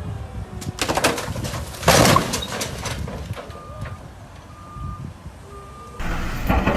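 Vehicle crash: a run of sharp impacts about a second in and the loudest crunch about two seconds in, followed by three short electronic beeps about a second apart.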